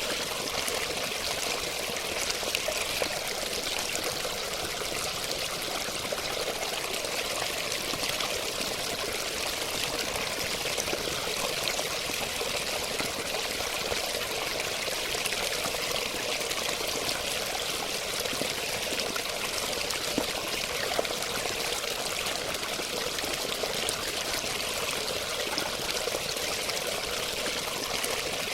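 Running water, a steady splashing flow that goes on without a break, with small splashes flickering through it.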